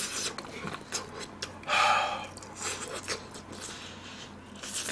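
Close-miked eating sounds: chewing and sucking on a piece of pork spine bone, in short scattered noisy bursts and clicks, the loudest about two seconds in.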